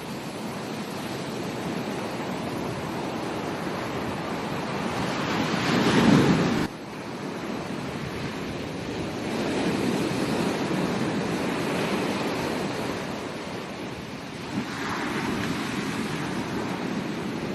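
Ocean waves breaking and washing up a beach in repeated swells. The loudest surge comes about six seconds in and cuts off sharply.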